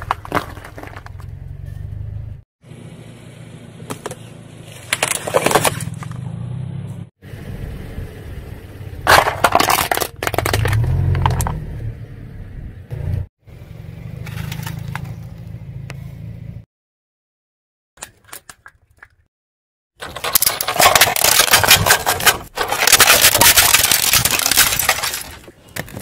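Plastic toy vehicles being crushed and broken: repeated cracking, snapping and scraping of plastic in several separate bursts, with a short silence in the second half and dense continuous crackling near the end.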